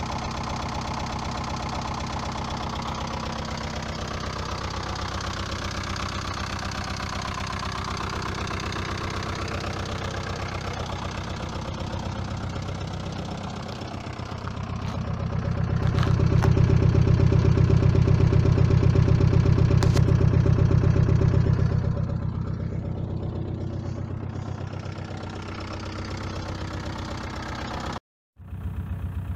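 VW Passat B3 1.9 D diesel engine idling steadily through a Remus exhaust. For several seconds in the middle it is heard much louder and deeper close to the tailpipe, with no change in engine speed. Near the end the sound cuts out briefly and the idle resumes.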